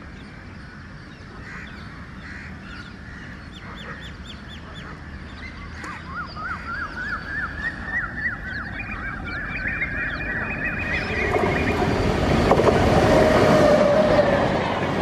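Express train behind an electric locomotive approaching and rushing past, its rumble growing steadily louder and loudest in the last few seconds. Before that, a long run of short rising honking calls repeats about three times a second.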